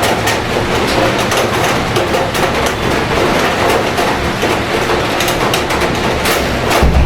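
Steady rain falling, with many sharp clicks of drops hitting nearby surfaces over a constant low city rumble.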